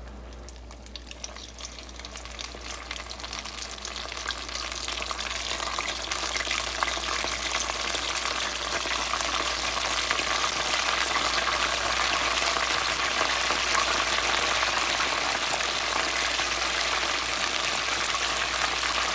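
Battered chicken wings deep-frying in hot oil on their second fry: a dense crackling sizzle that grows louder over the first several seconds, then holds steady.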